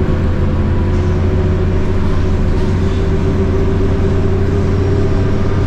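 Scania K230UB bus's DC9 diesel engine running steadily under way, a loud, even drone at constant pitch.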